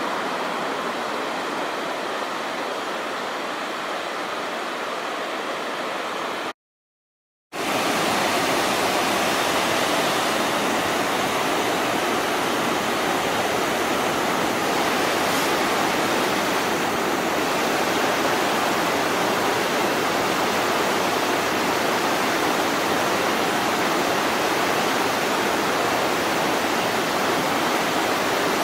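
Steady rush of flowing river water. It cuts out completely for about a second, then resumes a little louder.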